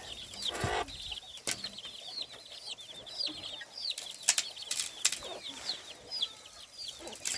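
Many high, short chirps from birds, several a second, overlapping, with a few sharp clicks or knocks scattered through.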